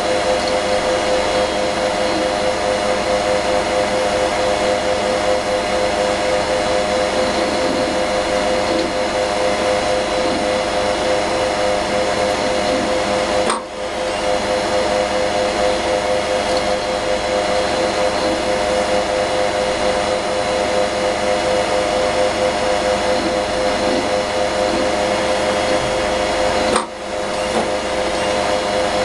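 Crashed Maxtor 6L020J1 hard disk drive running with a steady whine and a fast flutter, its heads failing and repeatedly knocking. The sound drops out briefly twice, about 13 seconds apart.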